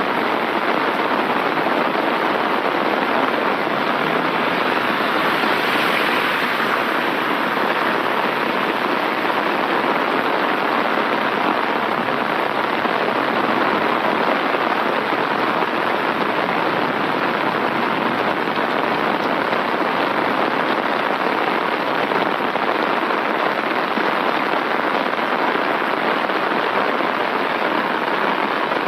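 Steady heavy rain, heard from under an umbrella with the drops falling on its canopy.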